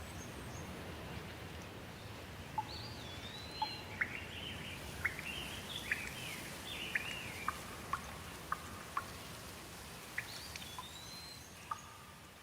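Steady rain hiss with a songbird singing short phrases of rising and falling whistles about three seconds in and again near the end. Sharp single drips plink every second or so.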